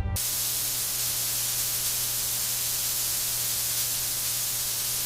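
Steady, loud static-like hiss with a low hum beneath it, cutting in abruptly as music stops.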